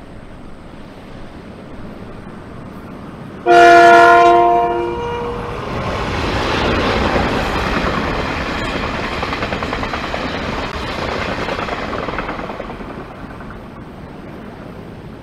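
A passenger train's locomotive sounds its horn, one loud chord of about a second and a half, some three and a half seconds in. The train then runs past on the rails, its rolling noise swelling and slowly fading.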